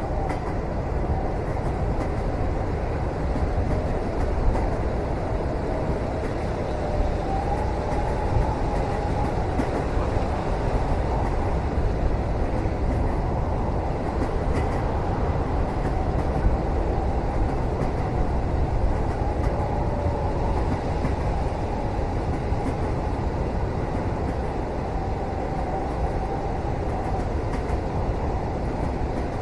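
Steady low rumble of a passenger train running, as heard inside a cabin, with a faint wavering whine that comes and goes and a few soft knocks.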